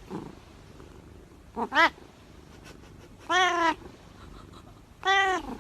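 A cat meowing: two short meows in quick succession, then two longer meows about two seconds apart.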